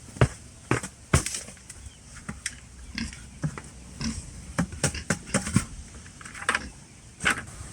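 Pigs grunting, mixed with irregular sharp clicks and knocks.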